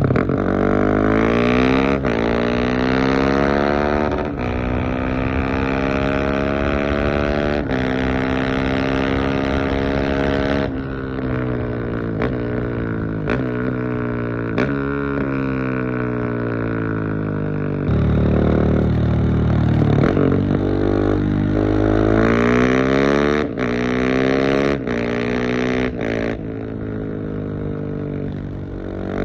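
Husqvarna 701 Supermoto's big single-cylinder engine through a LeoVince aftermarket exhaust, its engine note sweeping up and down in long runs with sudden breaks between them. A little past halfway it holds a steadier, deeper note for a couple of seconds.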